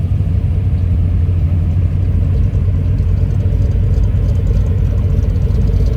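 Car engine idling or creeping by at low speed close to the microphone, a steady deep rumble.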